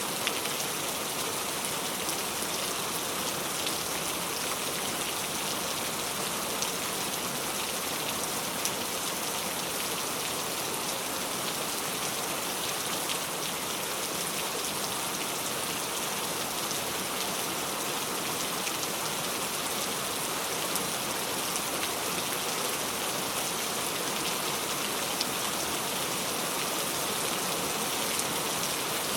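Steady rain falling, with drops pattering on a surface in a dense, even hiss.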